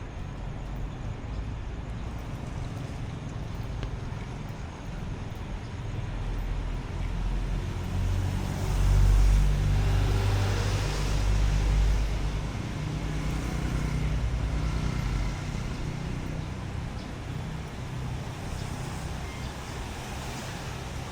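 Street traffic, with one vehicle passing close about halfway through: its low engine rumble and tyre noise swell, then fade.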